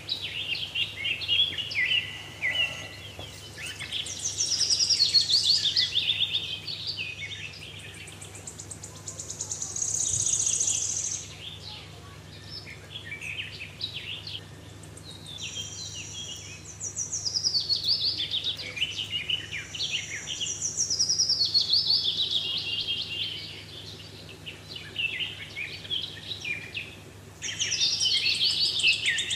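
Songbirds chirping and singing in quick runs of high notes and falling trills, phrase after phrase with short pauses, over a faint steady low hum.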